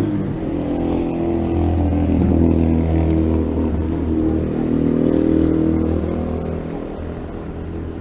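A motor vehicle engine running close by, its pitch shifting slowly as it pulls along, easing off near the end.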